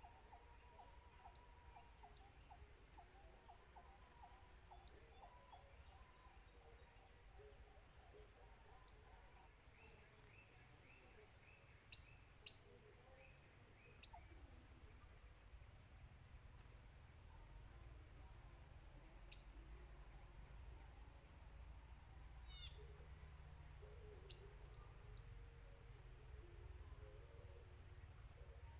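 A steady, high-pitched chorus of insects, crickets or cicadas, with a fast pulsing trill, and faint short bird chirps now and then underneath.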